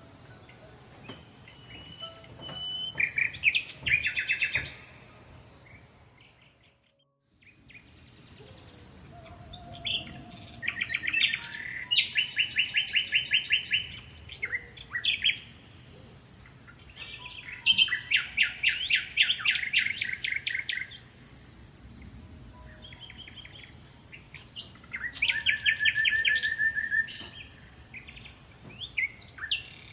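Songbirds singing in bouts of rapid, evenly pulsed trills, with a few higher chirps between them. The sound drops out for about a second around seven seconds in.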